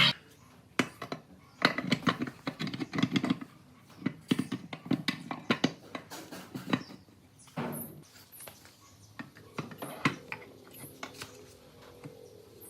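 A series of irregular light clicks and knocks, thick in the first half and thinning out toward the end.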